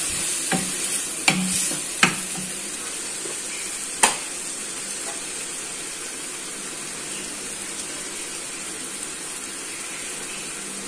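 Onion and tomato paste frying in butter in a nonstick pan, sizzling steadily while a wooden spatula stirs it. The spatula knocks sharply against the pan about four times in the first four seconds, then only the sizzle goes on.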